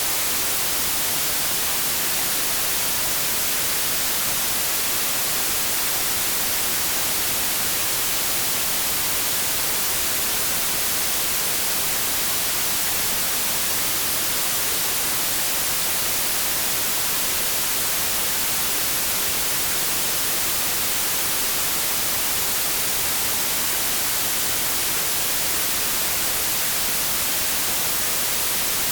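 Continuous white noise: a steady, even hiss, strongest in the treble, that does not change.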